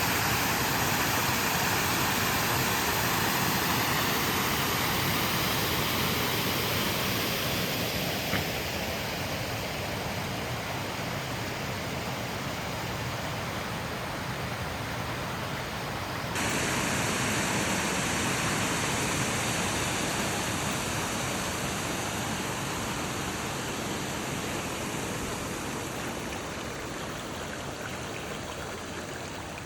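Heavy rainwater running and falling, a steady rushing hiss. Its tone changes abruptly about halfway through, then it eases off slightly toward the end.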